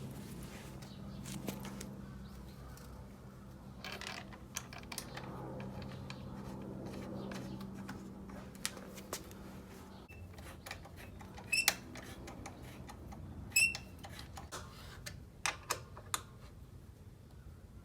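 Handling noises during an oil change: scattered clicks and knocks, with two sharp ringing metallic clinks past the middle, over a low steady hum that fades out about halfway through.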